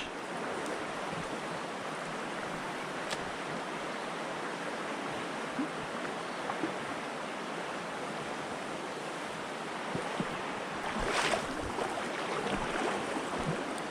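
River water running, a steady even rush. A faint click about three seconds in and a short louder rustle or splash near eleven seconds.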